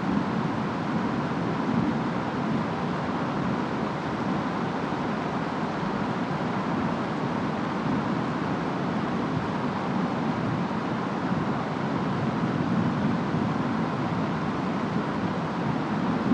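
Steady rain and wind of a storm, an even hiss with a low rumble underneath.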